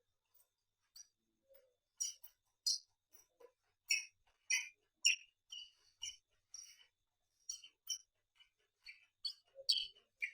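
Close-miked eating sounds: irregular wet chewing and lip-smacking clicks, one to three a second.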